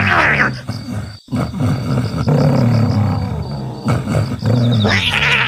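Deep animal growls and snarling roars, repeated, with a sudden brief break about a second in.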